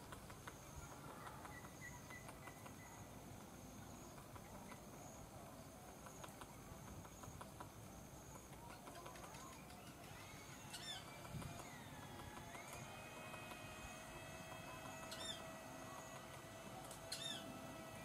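Faint, mostly quiet outdoor background with three short, high, falling bird chirps spaced a couple of seconds apart in the second half. A faint steady hum comes in about two-thirds of the way through, and there are a couple of soft taps.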